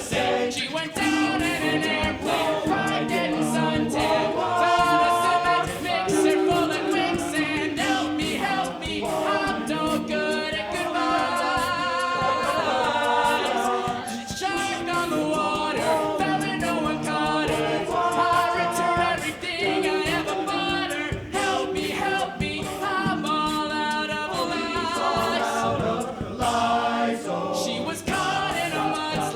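All-male a cappella group singing a pop song in close vocal harmony, with a vocal percussionist beatboxing the beat under the voices.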